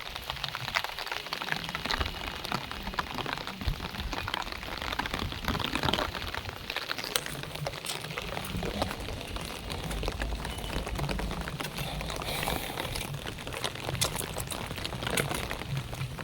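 Heavy monsoon rain pouring down, a dense continuous patter of drops striking surfaces with many sharp individual splats. A low rumble sits beneath it from about halfway through.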